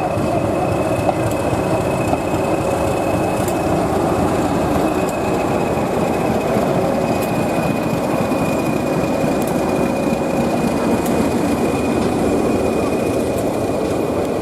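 A train running along the track: a loud steady rumble with a thin, steady high whine over it.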